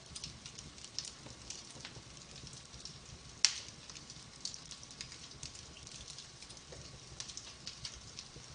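Wood fire crackling in a fireplace: a steady scatter of small crackles and snaps, with one much louder pop about three and a half seconds in.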